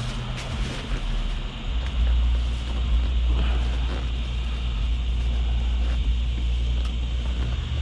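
A vehicle engine running with a low, steady rumble that grows louder a little under two seconds in. A few faint clicks sound over it.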